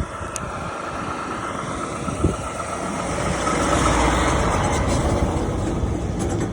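Vehicle running on the road, a steady rumble and rush that builds over the first few seconds and then holds, with a single short knock about two seconds in.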